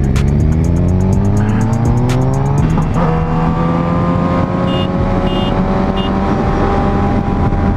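Motorcycle engine under hard acceleration, its pitch rising through a gear. About three seconds in, a quick upshift drops the revs, and the engine then pulls steadily up through the next gear.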